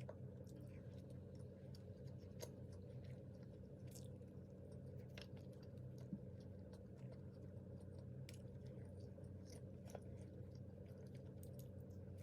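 Faint close chewing and biting of grilled-chicken pizza: scattered soft mouth clicks and crunches over a steady low hum.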